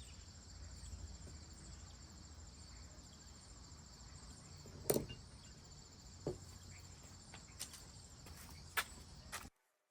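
Crickets chirring steadily, with a few sharp clicks and knocks from handling brake caliper parts and tools, the loudest about halfway through. The sound cuts off abruptly near the end.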